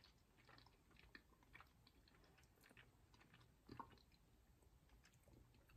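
Faint chewing of a soft vegan protein bar: scattered quiet mouth clicks and smacks, otherwise near silence.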